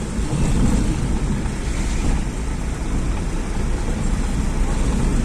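Steady rumble of a vehicle travelling along a highway: engine and road noise, with wind buffeting the microphone.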